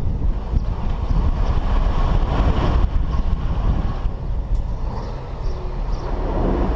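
Heavy diesel machinery running with a steady deep rumble, with a few faint short high beeps in the second half.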